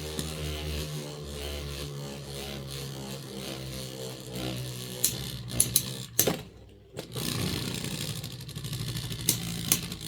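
Beyblade X spinning tops whirring in a plastic stadium, a steady hum that fades as they slow. Sharp clacks from hits come around five to six seconds in. The sound drops out briefly near seven seconds, then more whirring and clatter follow.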